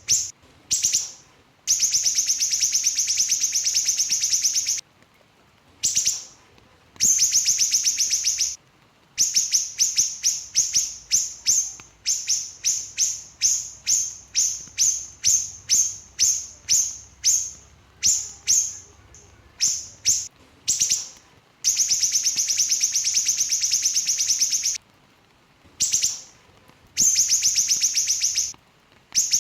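Small siri-siri songbird singing: long, fast trills of rapid high notes lasting a couple of seconds each, alternating with runs of separate sharp chirps at about two a second.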